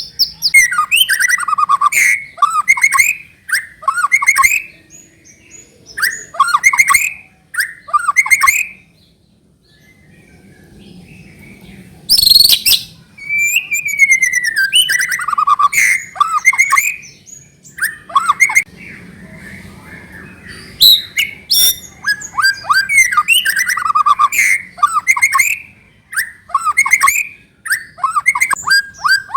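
White-rumped shama singing: loud phrases of clear whistles and fast, sweeping trills, with a short pause about a third of the way through.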